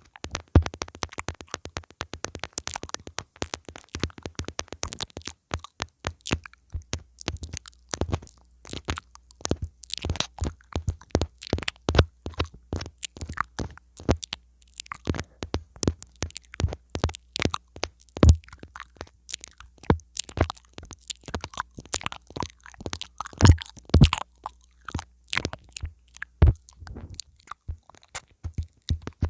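ASMR mouth sounds right on a lavalier pin microphone: lips and teeth nibbling the mic, giving a dense, irregular stream of sharp clicks and crunches.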